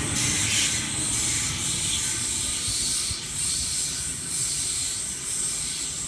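Steady hissing noise with a low rumble underneath as a Sydney Trains Waratah electric set pulls away from the platform.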